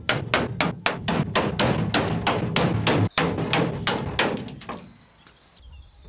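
Rapid hammer blows on metal, about four a second and some twenty in all, stopping a little before five seconds in. This is typical of knocking out old steel riv nuts from a Land Rover's floor-support rails.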